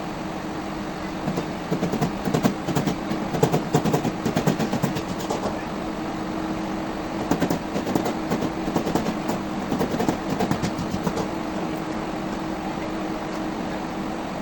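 A power tool's motor running steadily, with two spells of rough, rapid clattering as it cuts into fiberglass.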